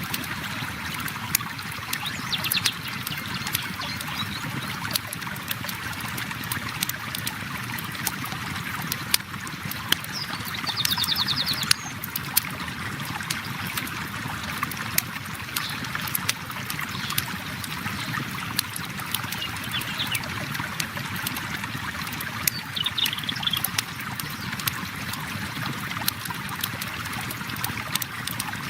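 River water flowing steadily, with a campfire crackling in sharp, irregular pops throughout. A few brief high trills come through, the clearest about a third of the way in.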